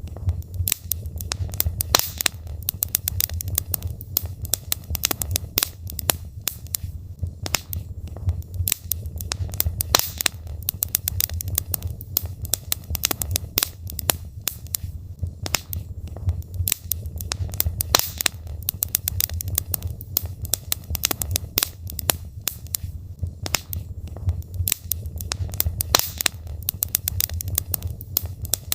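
Wood fire burning in a fireplace: logs crackling and popping in a dense, irregular stream of sharp snaps over a steady low rumble of the flames.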